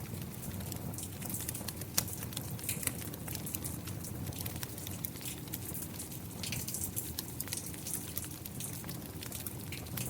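Steady rain with a wood fire crackling, scattered sharp pops through it and one louder pop about two seconds in.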